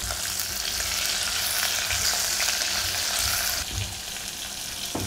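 Sliced bitter gourd sizzling in hot coconut oil in a stone pot, stirred with a silicone spatula. The sizzle eases a little about three and a half seconds in.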